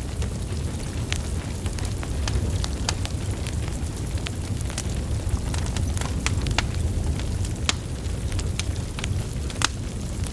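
Wood fire burning: burning logs crackling with frequent sharp irregular pops over a steady low rumble of flame.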